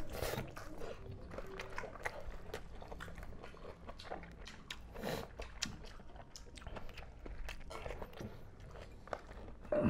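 Close-up chewing and biting by two people eating rice and pork curry by hand, with many small irregular wet mouth clicks and crunches. A louder knock comes near the end.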